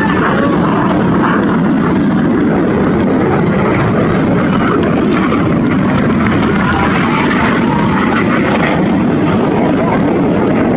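Loud, steady aircraft engine noise with no clear rise or fall.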